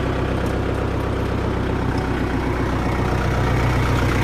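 Tractor engine running steadily, an even low throb that holds without change.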